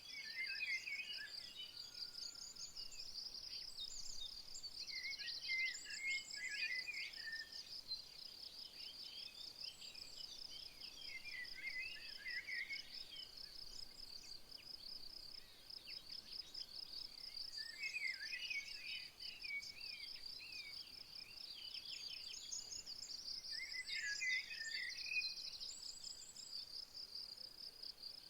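An insect's steady, fast-pulsing high trill runs throughout. A songbird sings short warbling phrases over it about every six seconds, five times in all.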